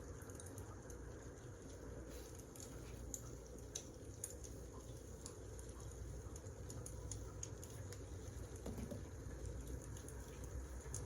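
Wood fire crackling: faint, irregular sharp snaps and pops over a low, steady rumble of burning logs.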